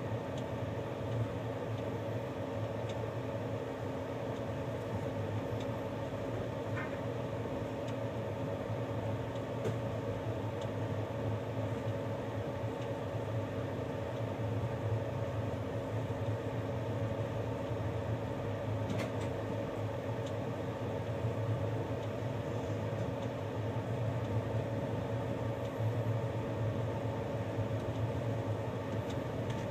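Moving train heard from inside the carriage: an even, steady running noise with a low hum and a few faint clicks.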